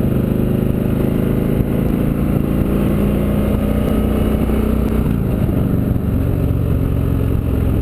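V-twin engine of a 2000 Victory V92C cruiser motorcycle running under way at a steady cruise, its engine note easing down about five seconds in.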